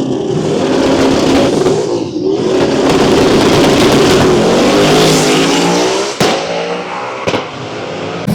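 Drag car's engine at full throttle, its pitch climbing for a few seconds as it accelerates, then dropping lower and getting quieter near the end.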